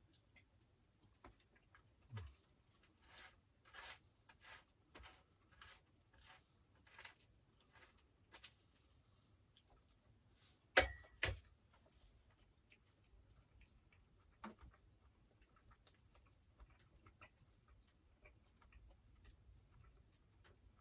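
A string of soft clicks and taps, one or two a second, then two louder knocks close together about halfway through and one more a few seconds later.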